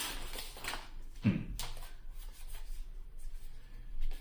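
Yu-Gi-Oh trading cards being handled and flipped through, soft rustles and slides of card stock, with a brief low voice sound about a second in.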